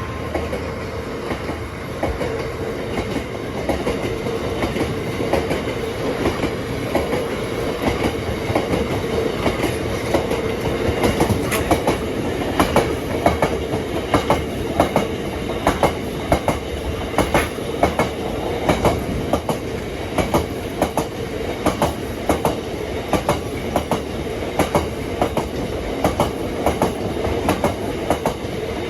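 A freight train's wagons rolling past close by, their wheels clicking over the rail joints in a steady, repeated clickety-clack over a continuous rumble.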